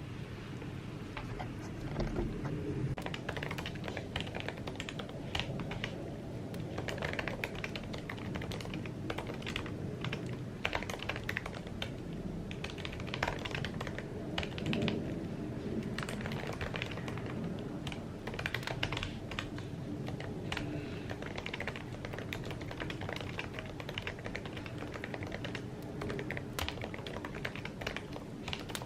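Typing on an Apple keyboard: a steady run of quick, light key clicks with brief pauses.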